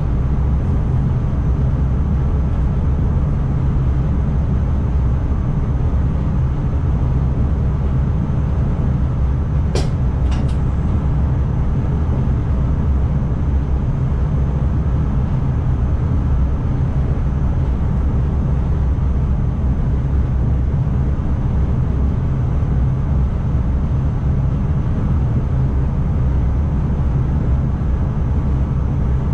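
ICMm intercity electric multiple unit running along the line, heard from inside the driver's cab as a steady low rumble of wheels and drive. A few sharp clicks come close together about ten seconds in.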